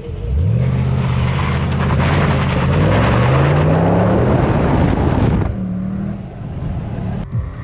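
V8 car accelerating hard, loud, its engine note climbing through the revs with a shift partway through. About five and a half seconds in the driver lifts off and it falls back to a lower, steady note.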